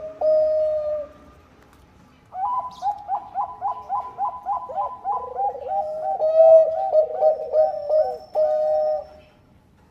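Bangkok-strain zebra dove (perkutut) cooing. A coo trails off in the first second; after a short pause comes a long phrase of quick, repeated coo notes, about four a second, lasting some seven seconds.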